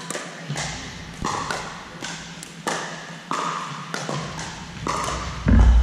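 Pickleball rally: a string of sharp, hollow pops from paddles hitting the plastic ball, one roughly every half second to second, echoing in a large hall. A loud, heavy thump near the end.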